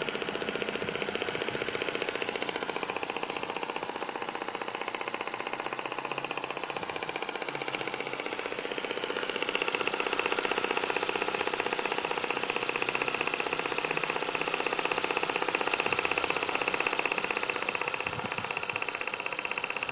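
Small model marine steam engine of 5/8-inch bore and stroke, part of a Stevens model dockyard steam plant, running fast with a rapid, even beat. About halfway through it grows a little louder and a higher tone comes in.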